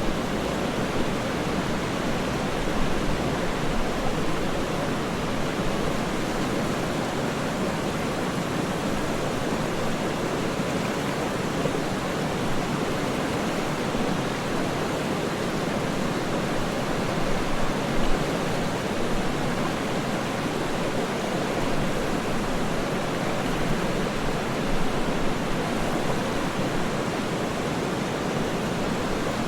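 Waterfall: a steady, even rush of falling water with no other sounds, swelling slightly a few times.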